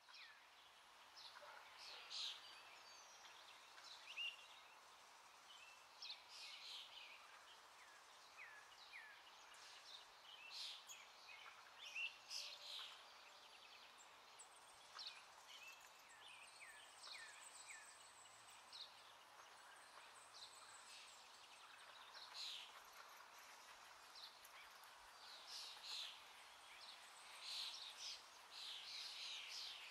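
Faint birds chirping over a quiet background hiss: many short, scattered chirps, some falling in pitch.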